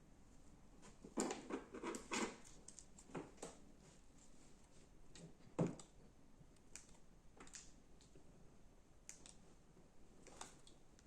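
Slime being worked by hand, giving scattered small clicks and pops: a cluster about a second in and a single louder pop about halfway through.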